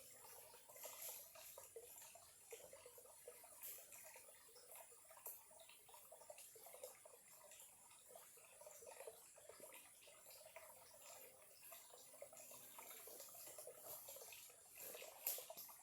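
Small clear stream trickling faintly, an irregular, continuous burble of water over stones.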